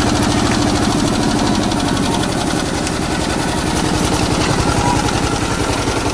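Diesel engine running steadily after being started, with a rapid, even knock of firing strokes.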